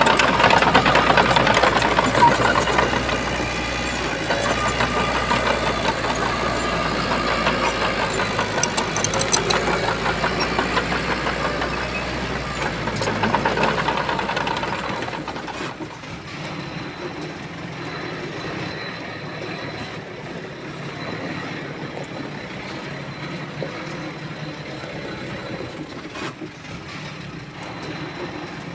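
Heavy diesel engine of earthmoving machinery working, loud with a busy mechanical sound, then easing off to a quieter, steadier running about halfway through.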